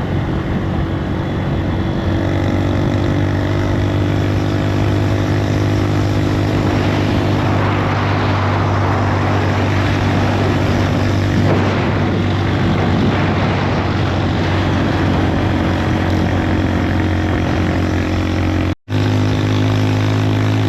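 Bus engine running with a steady low drone and road noise. The sound cuts out for an instant near the end.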